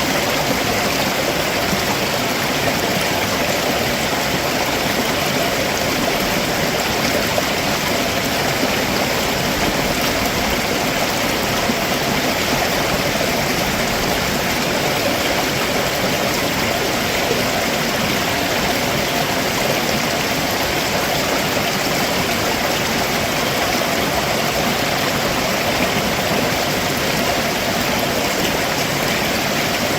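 Stream water running steadily over rocks below a waterfall, a constant rushing and splashing.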